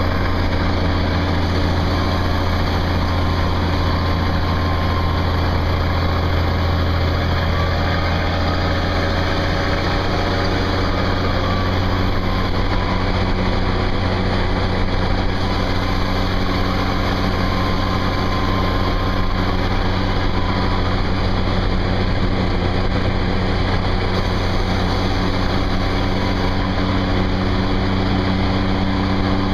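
Turbocharged LDT-465 multifuel engine of an M342A2 6x6 dump truck running steadily under load as the half-loaded truck climbs a small hill. A faint high turbo whistle wavers above the deep engine drone.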